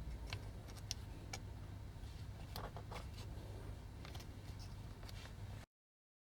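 Faint, scattered clicks and small taps of hard plastic toy parts being handled and worked on, over a low steady hum; the sound cuts off abruptly to dead silence near the end.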